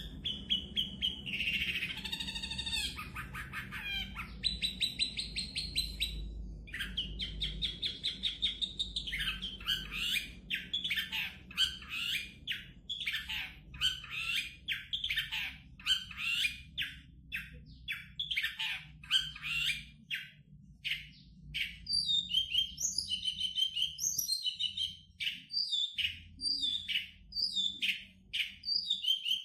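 Long-tailed shrike (cendet) singing a long, varied song: buzzy trilled phrases in the first few seconds, then a fast run of short, high, chattering notes.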